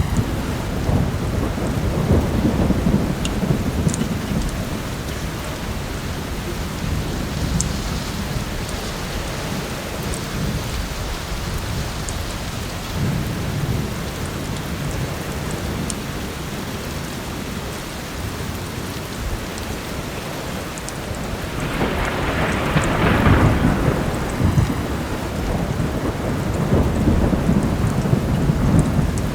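Heavy rain with low rolling thunder rumbling throughout, swelling louder about three quarters of the way through, and scattered faint crackles from a fireplace.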